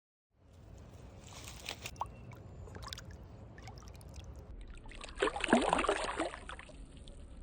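A brief burst of water splashing about five seconds in, lasting around a second, over a low steady background.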